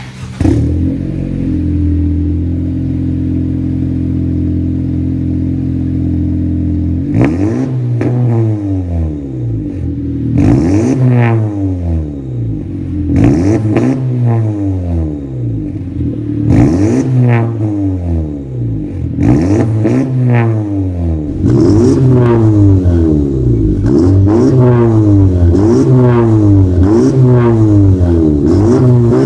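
2016 Honda Civic RS four-cylinder engine through an aftermarket intake and exhaust, idling steadily for about seven seconds, then blipped in a series of revs about every three seconds that rise and fall in pitch. From about two-thirds of the way through, the revs come quicker, about one a second, and louder.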